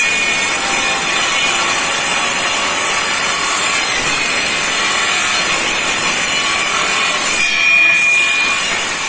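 A tool working on material, a steady rasping noise with no clear stroke rhythm.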